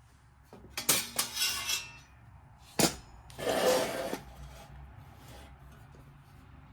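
Metal pieces clinking and rattling against each other. A quick run of clinks comes about a second in, then one sharp knock, then a short scraping rattle.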